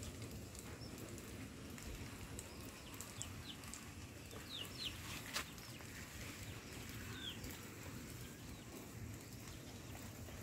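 A few faint, short high bird chirps, a cluster about three to five seconds in and another near seven seconds, over a steady low outdoor rumble, with a single sharp click midway.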